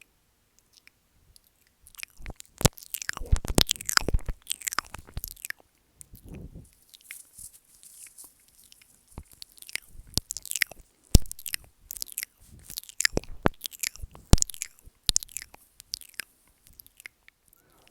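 ASMR mouth sounds close on a sensitive microphone: wet smacks, tongue clicks and licking or nibbling noises, coming in dense irregular clusters. They start about two seconds in.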